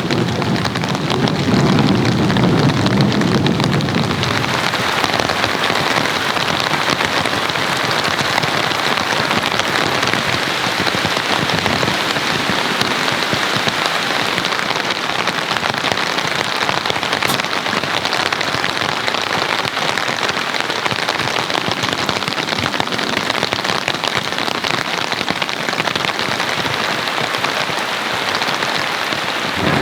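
Heavy rain falling steadily, an even dense hiss, with a low rumble underneath for the first four seconds.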